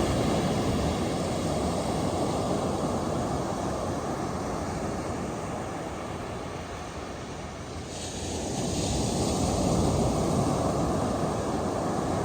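Ocean surf washing onto a beach: a steady roar of breaking waves that eases in the middle, then swells again as a fresh wave breaks about eight seconds in.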